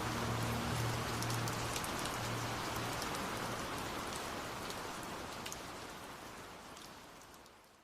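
Steady rain falling, with scattered sharp drop ticks; the whole sound fades away toward the end. In the first few seconds the last muffled bass notes of a song, heard as if from another room, die away under the rain.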